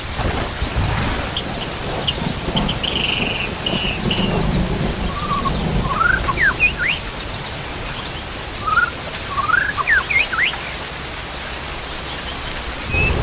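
Birds giving short whistled chirps and rising calls over the steady hiss of rain, with low rumbling near the start and again near the end.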